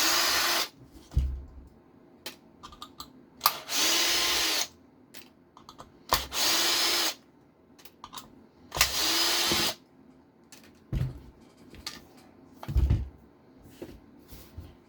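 Small electric screwdriver running in four short bursts of under a second each, backing out screws to take a bracket off an RC car chassis, with light clicks of small parts and tools being handled between the bursts.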